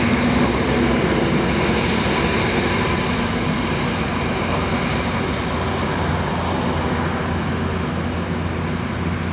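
Jet airliner engines running loud and steady, a continuous rushing noise with faint high whining tones.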